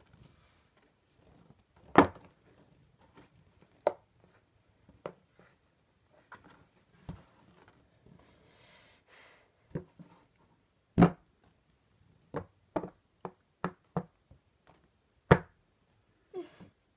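Irregular knocks and thumps, with a faint rustle in between, as a cat moves about in a box. The loudest thumps come about two seconds in, near the middle and near the end.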